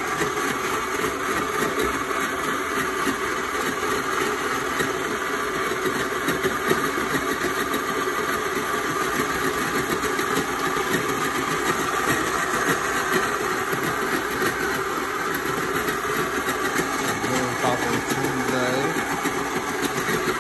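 Countertop blender running steadily, crushing ice with juice for slushies.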